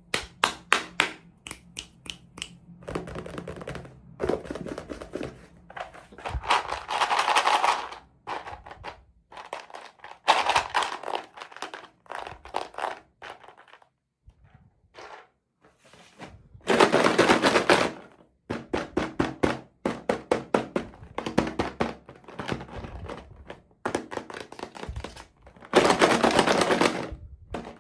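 Unboxing handling sounds of toy packaging: quick clicks and taps of small hard pieces, with several one-to-two-second bursts of crinkling, the loudest twice near the middle and near the end.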